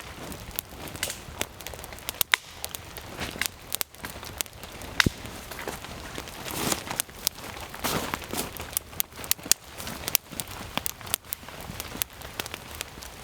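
Campfire of soaking-wet wood crackling, with many sharp pops and clicks scattered throughout over a steady patter of rain.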